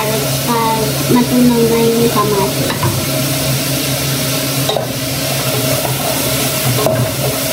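Onion, garlic and tomato frying in oil in an aluminium pot on a gas stove, sizzling steadily as a spatula stirs them with light scrapes against the pot.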